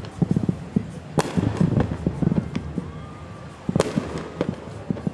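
Fireworks going off: a dense run of sharp crackling pops, with two louder bangs, one about a second in and one near four seconds in.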